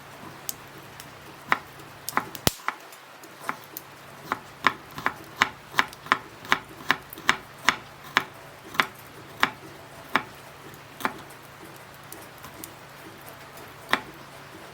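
Sharp knocks or taps: a few scattered ones, then an even run of about three a second lasting some six seconds, and a last one near the end.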